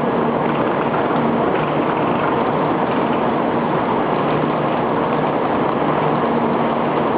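Steady, loud rumble and hiss of a Shinkansen train, with faint low hums that come and go.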